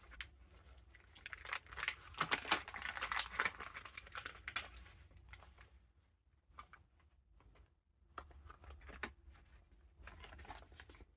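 Paper rustling and crinkling as the pages of a handmade junk journal full of vintage paper ephemera are turned and handled. The rustling is busiest in the first few seconds, then drops to a few light ticks, with one more short rustle near the end.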